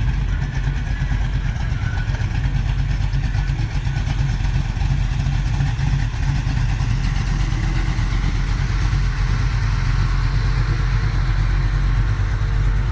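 A vehicle engine running steadily at idle, with a low, even rumble.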